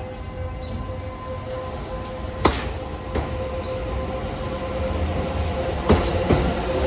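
Kintetsu electric train of coupled 1620, 1422 and 2800 series cars moving alongside the platform, a steady rumble with sharp wheel clacks over the rail joints a few times, growing louder.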